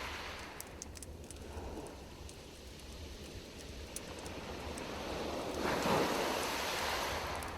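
Campfire crackling: scattered sharp pops over a steady rushing noise that swells for about two seconds near the end.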